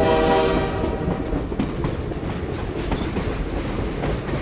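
A train running on rails: a steady low rumble with scattered clicks of the wheels, opened by a short blast of the train's whistle that fades within the first second.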